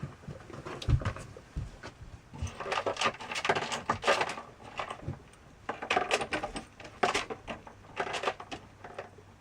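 Irregular clattering and rustling of small objects being handled and knocked, with busier stretches about three seconds in and again about six to eight seconds in.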